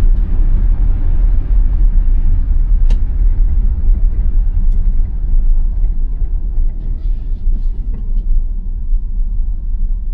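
Steady low rumble of tyres and road noise inside an electric Tesla Model Y driving on snow-covered, unplowed roads, with no engine sound. A few faint ticks sound over it.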